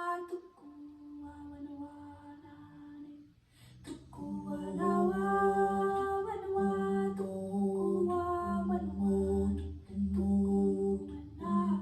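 A woman's voice toning long, wordless held notes, a qigong healing-sound chant. The notes are soft at first and grow louder from about four seconds in, stepping from one sustained pitch to the next.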